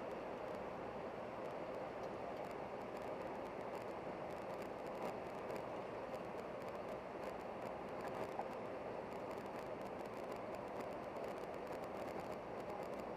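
Steady, even running noise of a moving vehicle, a continuous rumble and hiss with no distinct events.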